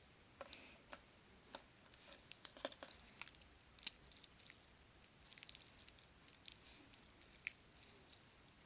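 Slime being handled: faint, irregular small sticky clicks and pops.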